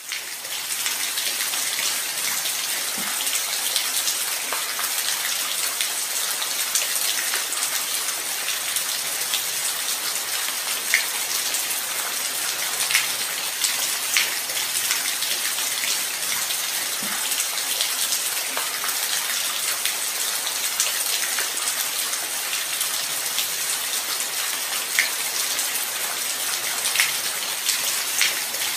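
Light rain falling steadily: a dense, even hiss with scattered individual drops ticking sharply now and then.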